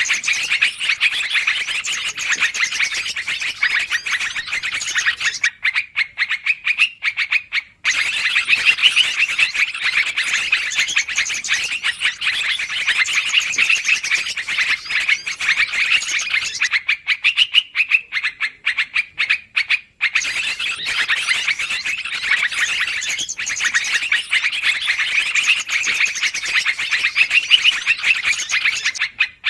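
Yellow-vented bulbul (trucukan) bird-lure recording: fast, agitated chattering calls in long runs, broken twice by short pauses.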